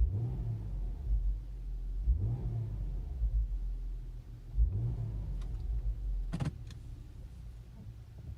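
Subaru Outback 3.6R's flat-six engine and exhaust through WRX mufflers, heard from inside the cabin while driving: a low rumble whose pitch rises three times as the car pulls away and accelerates. There is a short click a little after six seconds in.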